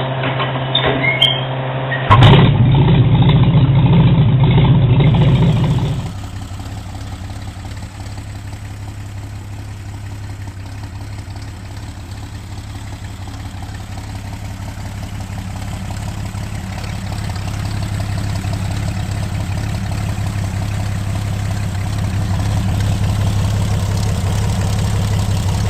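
Rat rod truck engine starting with a loud burst about two seconds in, running loud for a few seconds, then settling into a steady idle that slowly grows louder.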